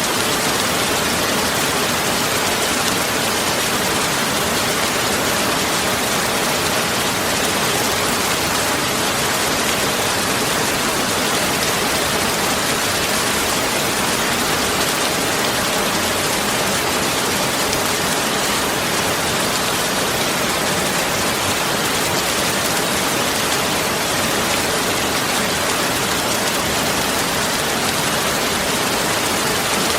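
Steady, even rain-like hiss with no breaks, drops or changes.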